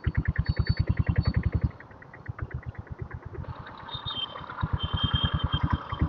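Royal Enfield diesel Bullet's single-cylinder engine running under way, a fast, even beat of exhaust pulses. Just under two seconds in the beat drops much quieter for about three seconds, then grows louder again.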